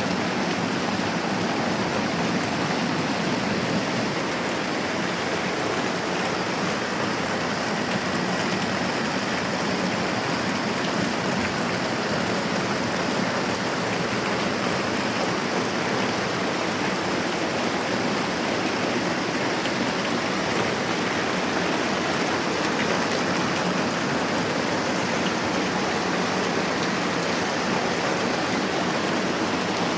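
Steady moderate rain falling, an even hiss.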